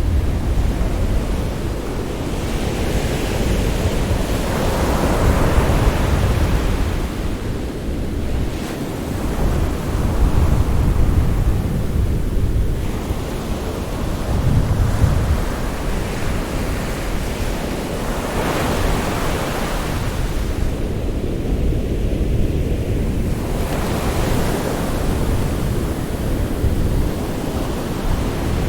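Sea waves breaking and washing in, the surf swelling and easing every few seconds over a steady low rumble, with wind buffeting the microphone.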